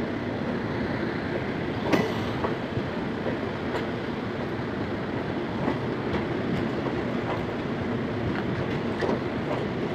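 ICF passenger coaches of a departing express train rolling past on the rails: a steady rumble of wheels on track with occasional sharp clicks, the loudest about two seconds in.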